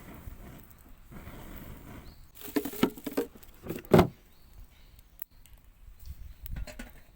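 Rustling handling noise with a few short knocks, the loudest a sharp knock about four seconds in.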